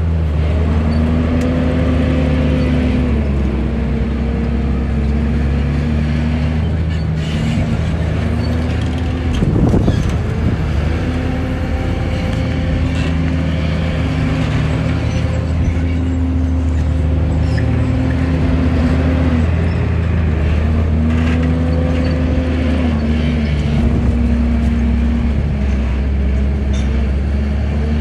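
Heavy diesel engine of earthmoving machinery running steadily, its pitch rising and dipping with the throttle, with a brief loud burst of noise about ten seconds in.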